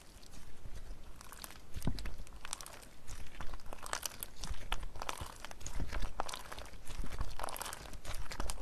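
Crunchy slime being squeezed and pressed by hand, crackling with many small sharp clicks in repeated swells.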